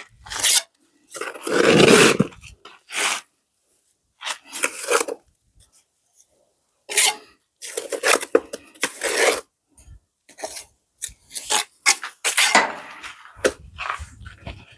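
Irregular short bursts of scraping and rubbing.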